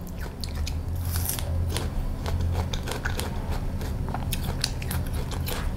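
Crisp wax apple (mận) being bitten and chewed, a run of many small, sharp crunching clicks.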